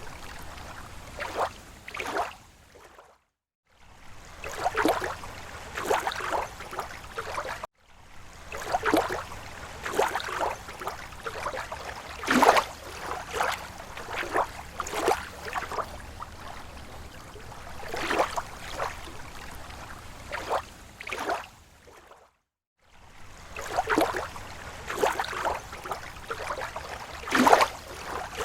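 Small, slow waves lapping on a lake shore: irregular splashes and gurgles over a steady wash of water. The sound cuts out briefly three times.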